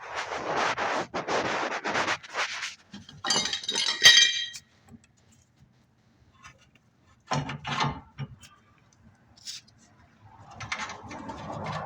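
Metal hand tools clattering and clinking as they are handled: a dense rattle for the first couple of seconds, a ringing metallic clink about three to four seconds in, then two short clanks near eight seconds and a softer rustle near the end.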